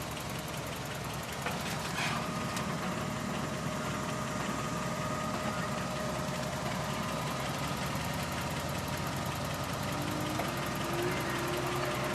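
Off-road vehicle engine idling steadily, a low even rumble, with a couple of faint clicks about two seconds in.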